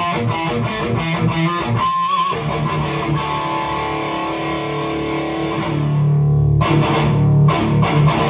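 High-gain electric guitar played through a REVV G3 distortion pedal on its tight blue setting, with no noise gate: fast palm-muted chugs, a short high note with vibrato about two seconds in, then a held chord that rings for about three seconds and is cut off sharply, before the chugging starts again.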